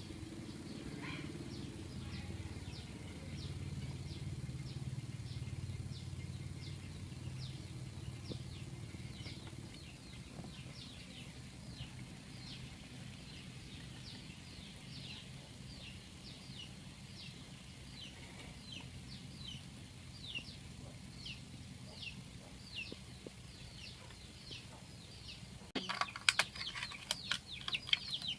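A small bird calling over and over, about two short, high, falling notes a second. About two seconds before the end, a louder burst of clicks and chirps breaks in.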